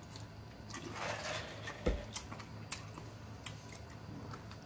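People eating chicken wings: scattered small wet clicks of chewing and lip-smacking, with a short rustle about a second in and a dull thump a little later.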